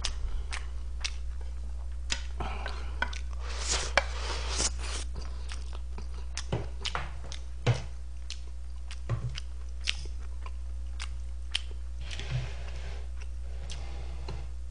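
Close-miked chewing of a mouthful of food, with wet mouth sounds and a scatter of sharp clicks, the loudest about four and eight seconds in, over a low steady hum.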